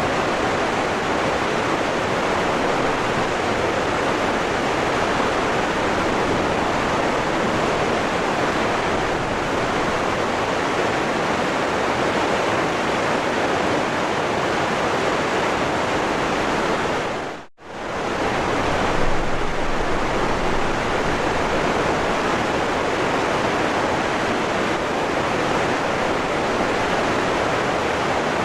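A waterfall rushing steadily, a dense even roar of falling water. About two-thirds of the way through it drops out for an instant and comes straight back.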